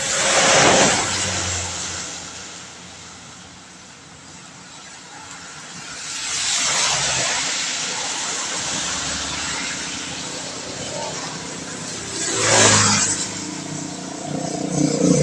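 Vehicles passing on a wet road, their tyres hissing through the water: one right at the start, a longer pass from about six seconds, and a quicker one a little after twelve seconds, over steady rain. Near the end an engine hum comes in.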